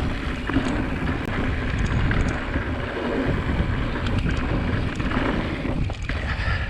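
Wind buffeting the microphone and tyres rumbling over a dirt trail on a moving mountain bike, a steady rushing noise with a few faint clicks.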